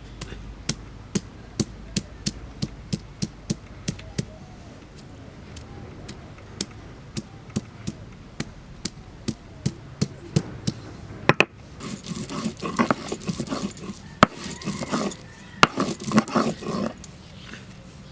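Food being chopped or pounded by hand: sharp, regular strikes about three a second, with a short pause. About eleven seconds in the strikes stop, and a rougher, irregular scraping and rattling takes over.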